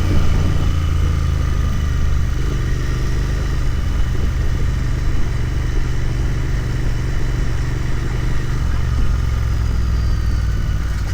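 Royal Enfield Continental GT 650's parallel-twin engine running steadily under way, its exhaust note holding an even pitch with no big rise or fall in revs.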